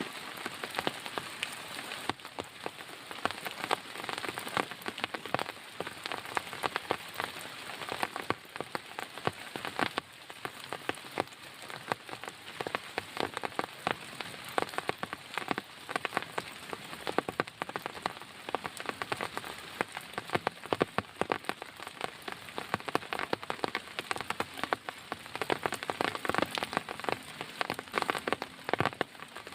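Heavy rain falling steadily, with many separate drops striking close by over a continuous hiss.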